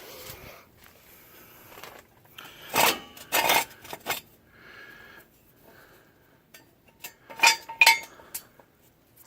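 Steel jack stand clanking and clinking as it is set under the truck and its post pulled up: two groups of sharp metal knocks, about three seconds in and again near the end, with light scraping between.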